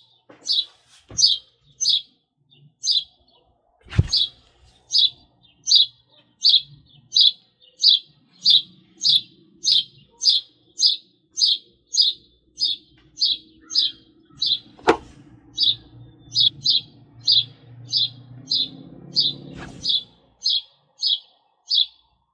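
A songbird hidden in a bush chirping over and over in a steady, even series, about three short high chirps every two seconds. A faint low rumble rises and fades in the middle.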